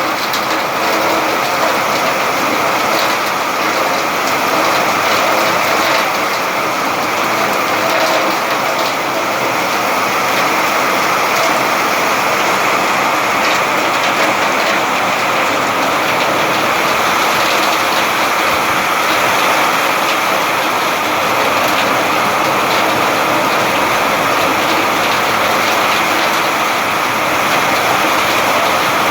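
Steady rain falling: a constant, even hiss with scattered drop impacts.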